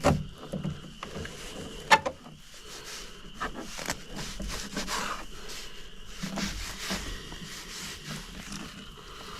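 Fillet knife cutting and scraping through a walleye fillet to remove the pin bones, irregular soft scraping and slicing. There are two sharp knocks, one at the very start and one about two seconds in.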